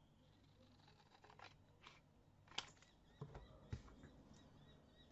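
Scissors cutting cardstock: a few faint, separate snips, the sharpest about two and a half seconds in, followed by a couple of soft knocks.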